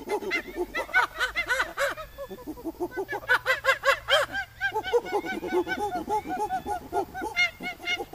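Monkeys chattering: a rapid, unbroken run of short, arching squeaky calls, several a second, some overlapping as if from more than one animal.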